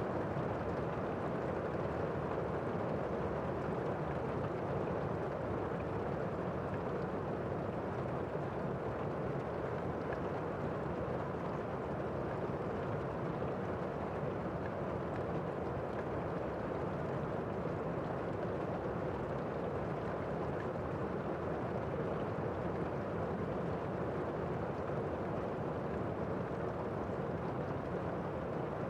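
Steady rain falling, an even, muffled rush with little hiss in the highs and no drops or thunder standing out.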